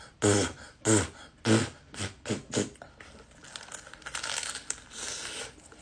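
Biting into and chewing crispy fried chicken close to the microphone: several loud short sounds in the first two and a half seconds, then softer, continuous crunching.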